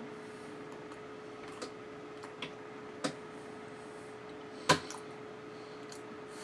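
A mouthful of peanut butter and jelly sandwich being chewed, giving a few short, sharp wet clicks; the loudest comes about two-thirds of the way through. A steady faint hum and hiss lie under it.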